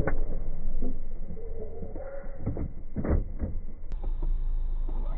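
Steady low rumble of a car's own running noise picked up by a dashcam microphone, with a few sharp knocks.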